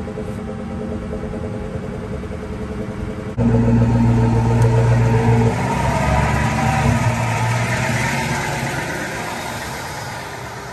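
1997 Ford Mustang Cobra's 4.6-litre DOHC V8 idling through its exhaust. About three and a half seconds in it jumps suddenly louder, then slowly fades toward the end.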